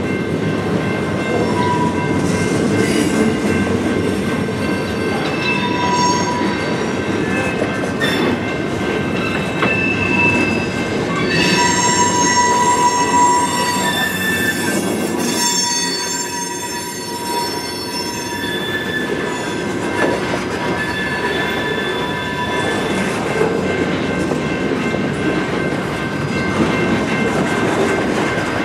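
Freight cars of a passing freight train rolling by at speed: a steady rumble of wheels on rail with intermittent high squealing tones from the wheels, strongest about halfway through.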